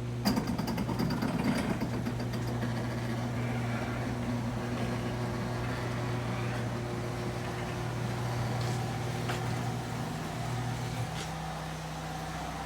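A car engine idling steadily, its hum shifting slightly about eleven seconds in, with a few clicks near the start.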